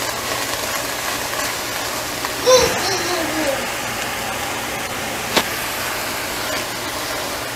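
Fresh spinach sizzling steadily in a hot cast iron skillet as it cooks down. A brief voice sound about two and a half seconds in, and a single sharp click a little after five seconds.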